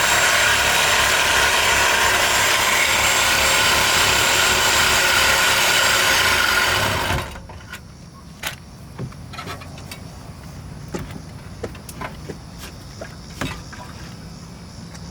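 A corded power tool cutting through a steel exhaust pipe, running loud and steady with a high motor whine, then switching off about seven seconds in. Light knocks and clinks of metal follow.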